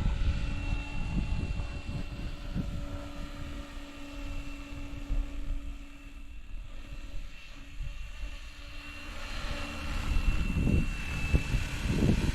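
Small electric RC helicopter in flight: its direct-drive motor and rotor give a steady high whine over a lower hum, at a head speed that seems a little slow. The sound fades around the middle and grows louder again near the end, with wind gusts buffeting the microphone.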